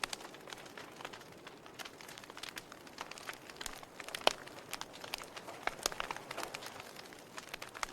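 Wood fire crackling: irregular sharp pops and snaps over a soft hiss, with one louder pop about four seconds in.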